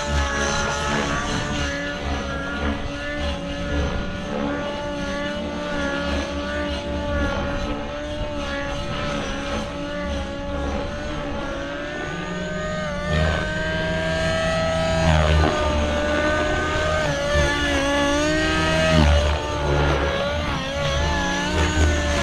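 XLPower Nimbus 550 Nitro RC helicopter in flight, its 50-size nitro engine and rotor giving a steady high whine while running on the throttle curve alone, governor off. The pitch swoops down and back up a little past halfway and again near the end as the helicopter manoeuvres.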